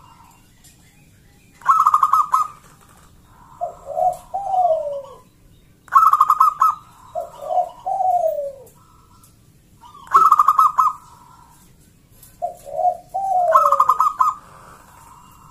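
Zebra dove (local perkutut) cooing: four song phrases about four seconds apart. Each phrase is a quick stuttering burst of notes followed by lower coos that fall in pitch.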